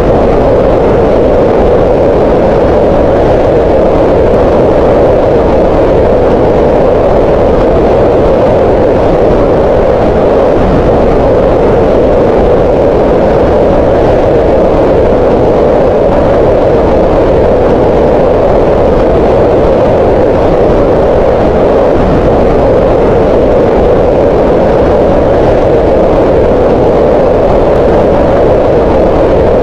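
Green noise: loud, steady synthetic noise like an even hiss, its energy gathered in a band around 500 Hz, with no change or events.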